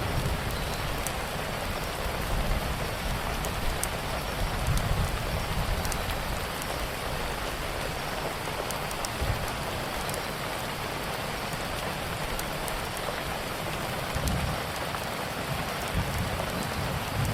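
Steady rain pattering, with small sharp crackles scattered through it and a low rumble that swells now and then, most near the start and near the end.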